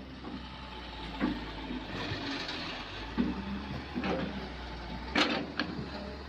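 Kobelco excavator's diesel engine running steadily at working speed, with sharp metallic clanks every second or so from the machine working, the loudest about five seconds in, and a brief hiss about two seconds in.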